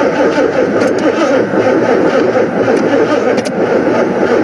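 An old car's engine is being cranked by its starter and fails to catch. It keeps turning over roughly without starting, on a weakening battery.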